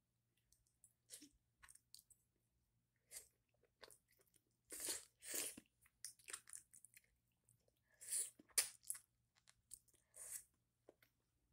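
Close mouth sounds of a person biting and chewing cooked octopus, in irregular bursts that are loudest about five seconds in and again about eight seconds in.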